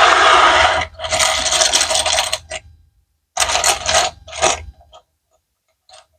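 Loose plastic Lego bricks clattering and rattling as they are tipped and stirred, in three loud bursts, followed by a few light clicks near the end.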